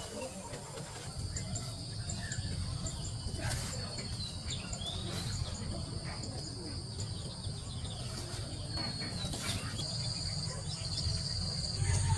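Field insects trilling steadily at a high pitch, with small repeated chirps and a few short gliding calls over a low rumble, broken by occasional sharp clicks.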